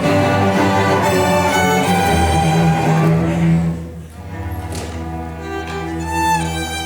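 String orchestra music: violins, cellos and basses playing sustained notes, dropping to a softer passage about four seconds in.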